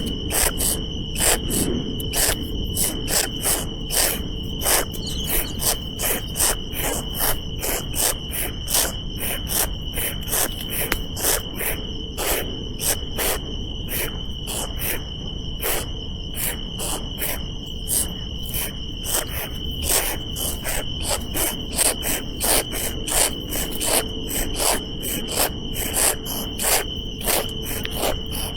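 Insects chirring: a steady high-pitched drone with a fainter lower hum, crossed by sharp clicks a few times a second.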